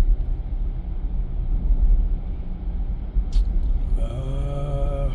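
Steady low road-and-tyre rumble inside a moving car's cabin. There is a short click about three seconds in and a brief wavering pitched sound near the end.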